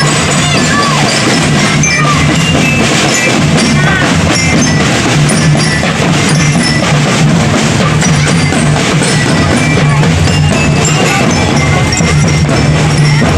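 Loud percussion music: drums with many bright, metallic bell-like notes over them.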